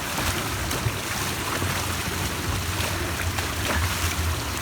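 Heavy storm runoff rushing steadily into a street catch basin that is filling faster than it can drain and is close to overflowing.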